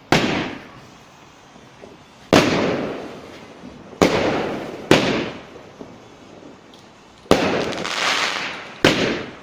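Fireworks going off: six sharp bangs at uneven intervals, each fading away over about a second.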